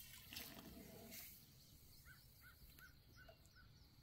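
Quiet outdoor ambience. A faint rustle comes in the first second, and from about halfway through a bird in the background calls a quick run of short, evenly spaced notes, about four a second.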